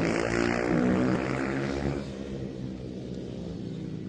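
Several 110cc single-cylinder four-stroke mini moto race bikes running at racing speed, their engines changing pitch. They are loud for the first two seconds, then fade quieter as they move off.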